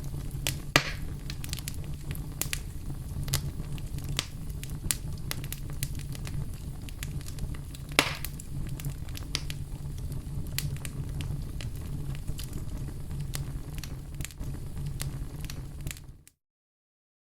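Fire crackling in a fireplace: a steady low rumble under frequent small snaps, with two louder pops, about a second in and about eight seconds in. Near the end the sound cuts off abruptly to silence for about a second.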